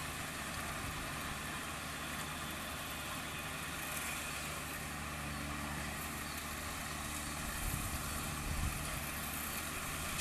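Combine harvester's diesel engine running steadily at constant speed.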